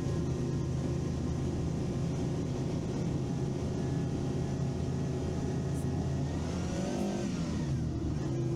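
Vehicle engine running steadily while driving, with a whine that rises and then falls back near the end.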